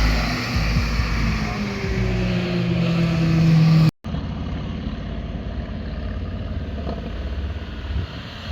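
Car engine under hard acceleration, its exhaust note climbing steadily in pitch and getting louder, cut off abruptly about four seconds in. After the cut, a quieter car engine runs more evenly.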